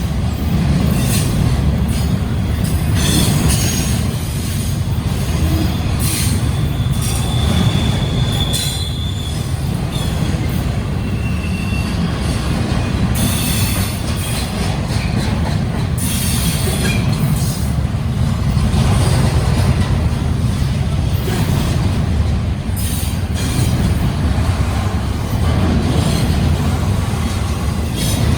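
Double-stack intermodal freight train rolling past: a steady low rumble of the cars on the rails, with brief high wheel squeals and screeches coming and going, one held squeal about eight seconds in.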